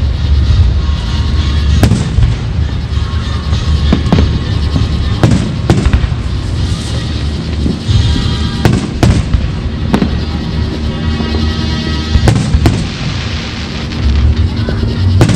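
Fireworks display: about a dozen sharp bangs and booms at uneven intervals over a continuous low rumble from the shells.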